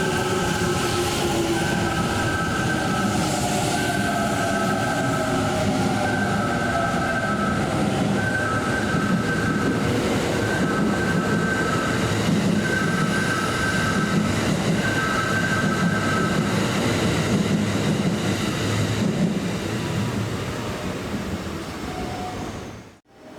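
A Kintetsu electric commuter train running into the station, its motor whine falling in pitch in the first few seconds as it brakes, with steady rumble and wheel noise. A two-note electronic chime repeats about every second and a half until about two-thirds of the way through.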